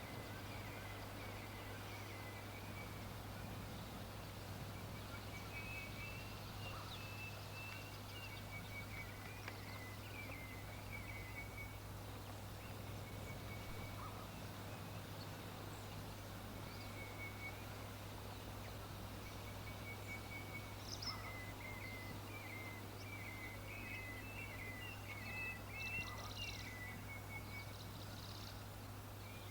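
Birds chirping faintly in short, repeated high phrases, busiest near the end, over a steady low hum.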